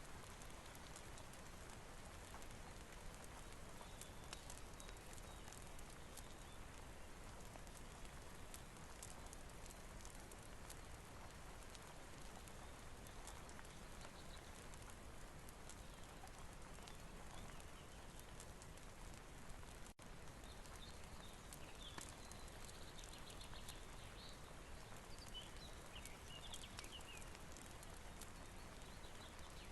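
Faint steady rain with many scattered small ticks and pops from drips or fire crackle. A few high chirps come in the second half, and the sound drops out for a moment about two-thirds in.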